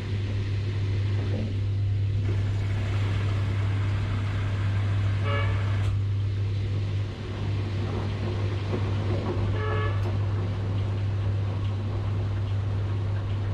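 Washing machine running with a steady low hum and a constant churning noise. Two brief horn-like tones stand out, one about five seconds in and one near ten seconds.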